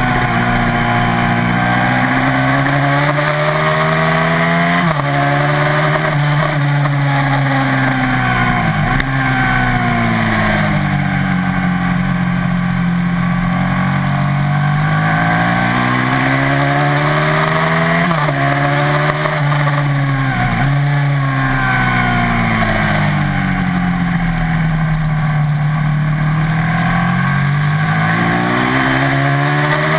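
Ducati TT1 racing motorcycle's V-twin engine at racing speed, heard onboard: its pitch climbs and falls in long sweeps with throttle and braking through the corners, broken by about five sharp jumps at gear changes.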